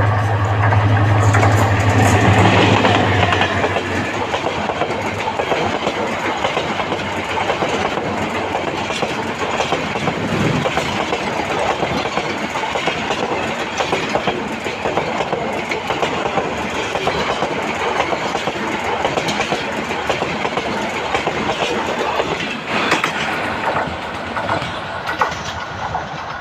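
A train passing close by with a steady rush and the clickety-clack of its wheels over the rail joints. A low engine hum from the locomotive is prominent for the first few seconds, then fades.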